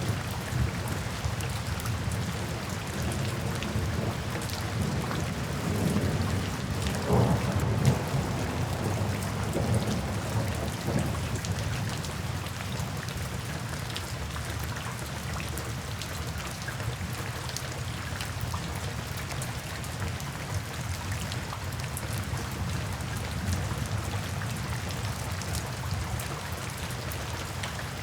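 Steady rain falling, with a soft roll of thunder rumbling for several seconds in the first half, loudest about seven seconds in.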